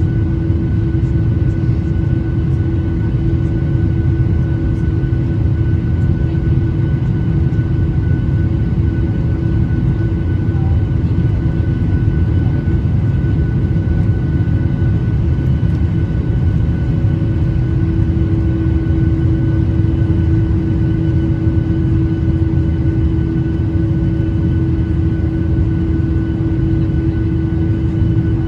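Cabin noise inside a Boeing 737-800: its CFM56 jet engines running at steady thrust under a dense low rumble, with a steady hum and a few fixed whining tones above it.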